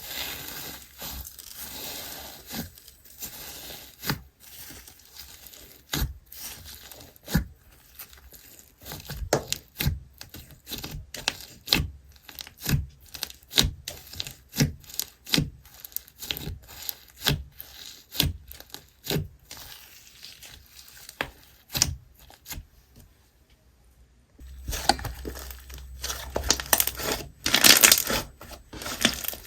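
Slime being squeezed and stretched by hand, giving a long run of sharp pops and clicks, with a denser crackling stretch in the last few seconds.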